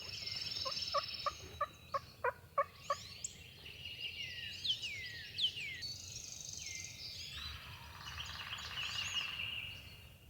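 A run of about nine evenly spaced turkey yelps from a hunter's call in the first three seconds. Later a wild turkey gobbler gobbles in answer, a rattling call of about two seconds near the end. Songbirds chirp throughout.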